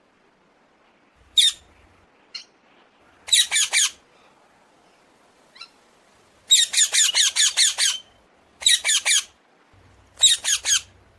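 Hill myna calling in bursts of loud, harsh, rapidly repeated squawks, mostly four or five notes at a time, with one longer run of about nine notes in the middle and a single squawk about a second in.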